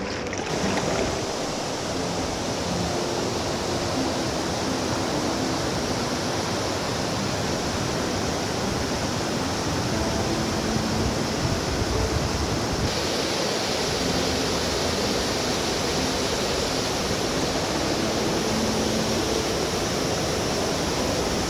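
Waterfall on a rocky river: a steady rush of falling water. About thirteen seconds in the hiss abruptly turns brighter.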